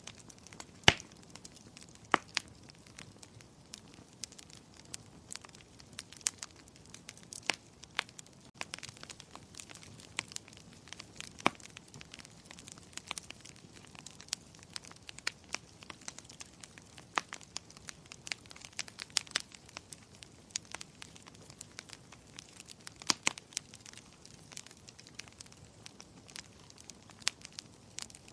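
Wood fire crackling in a fireplace: irregular sharp pops and snaps over a soft steady hiss, the loudest pop about a second in.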